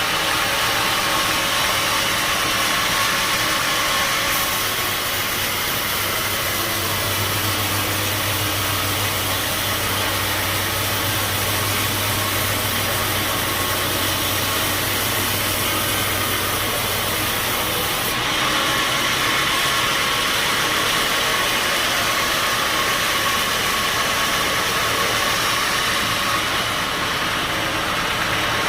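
Bandsaw sawmill running steadily, its sound shifting about four seconds in and again about eighteen seconds in.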